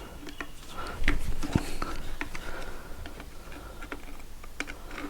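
Irregular light clicks and taps of small metal parts being handled and set down while a Benelli engine's clutch is dismantled, the sharpest knocks about a second and a second and a half in.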